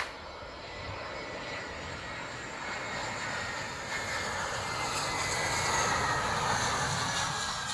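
Airliner on landing approach passing close overhead, its engine noise swelling to a peak about six seconds in and then easing, with a whine that slowly falls in pitch as it goes by.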